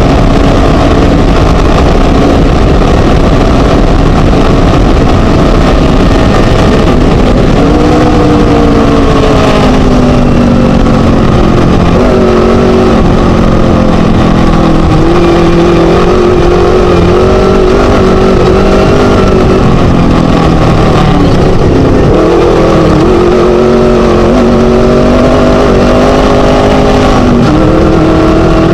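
Class 1 desert race buggy's Scat V4 engine running hard and loud, heard on board, its pitch falling and rising repeatedly with throttle and gear changes, over a constant rushing noise.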